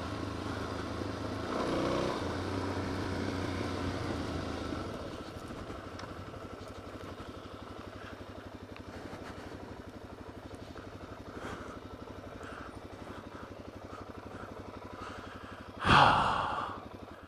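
Suzuki DRZ400S dual-sport motorcycle's single-cylinder engine running at low revs as the bike rolls down a gravel road, dropping quieter about five seconds in. A brief loud burst of noise comes near the end.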